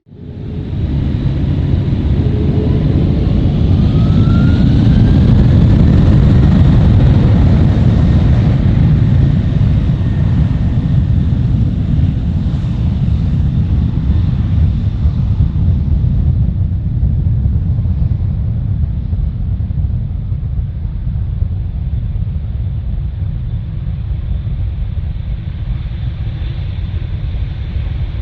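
Large jet airliner departing at takeoff thrust, heard very close: a loud, deep engine rumble with a whine rising in pitch over the first few seconds and a steady high fan tone. It eases slightly in the second half but stays loud.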